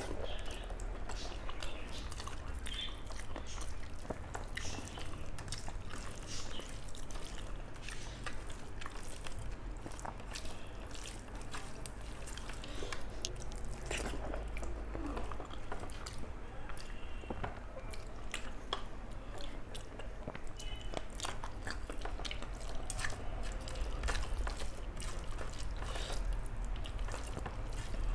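A person chewing and eating rice with curry close to the microphone: wet mouth sounds and many small clicks, over a low steady hum.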